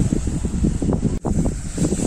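Heavy cyclone wind buffeting the microphone in irregular low gusts, the sound cutting out for an instant just after halfway.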